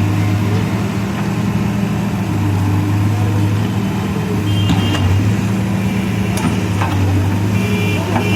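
Diesel engine of a CASE backhoe loader running steadily under work, with a few light knocks near the end.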